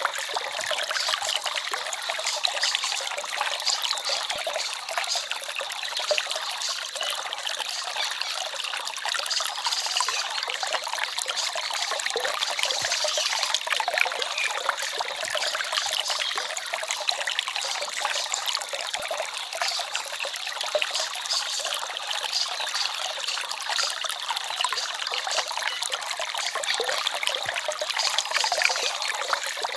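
Small forest stream babbling and trickling steadily: a fine, bright splashing with almost no deep rumble.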